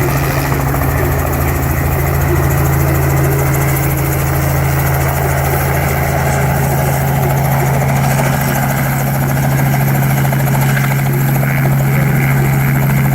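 Robinson R44 helicopter running steadily: a constant low hum from its rotor and Lycoming six-cylinder piston engine, over a steady rush of noise.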